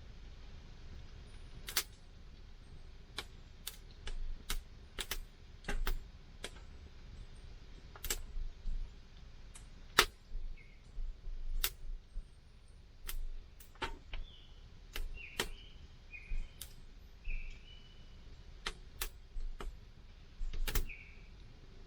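Wood campfire crackling, with sharp irregular pops and snaps at uneven intervals; the loudest comes about ten seconds in. Short, faint high squeaks sound several times in the second half.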